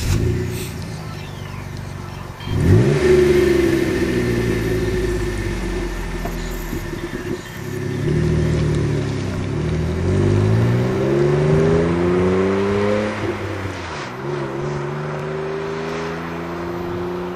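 Jeep Wrangler JK's 3.8-litre V6 running through a Flowmaster Super 50 Series axle-back muffler and stainless tailpipe. It revs up sharply a couple of seconds in, settles, then climbs steadily in pitch for several seconds, drops back and runs on evenly.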